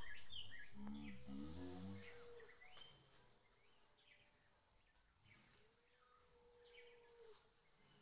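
Small birds chirping again and again in short calls, over a low rumble that fades during the first couple of seconds, with a low wavering voice-like sound about a second in and two faint long steady tones.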